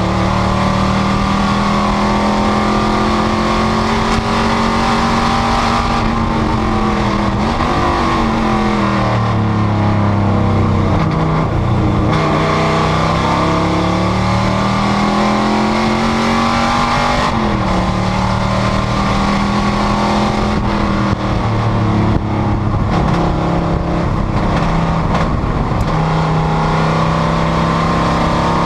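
Panoz GTS race car's V8 at racing speed, its pitch climbing and then dropping sharply with upshifts about seven and seventeen seconds in. Around ten to twelve seconds in the engine speed falls away in steps as the driver downshifts for a corner, then it climbs again under throttle.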